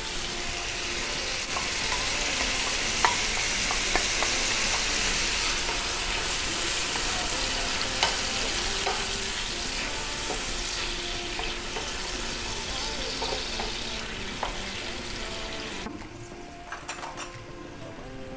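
Chopped mushrooms, onions and garlic frying in a pan, sizzling steadily while being stirred, with a few sharp clicks of the utensil against the pan. The sizzle drops off markedly near the end.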